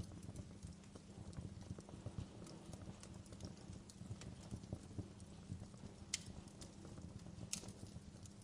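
Wood fire crackling in a fireplace: a dense run of small irregular crackles and low knocks, with two sharper pops about six and seven and a half seconds in.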